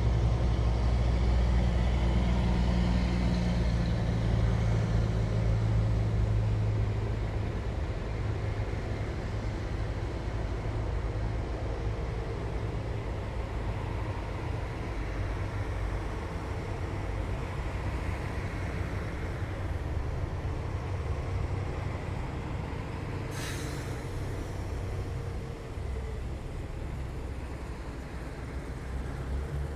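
Heavy diesel engines of passing military vehicles rumbling, loudest for the first several seconds and then easing off as they move away. A short hiss about 23 seconds in.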